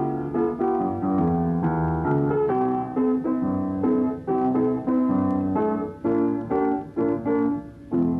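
Piano music: a melody of separate struck notes over chords, a few notes a second.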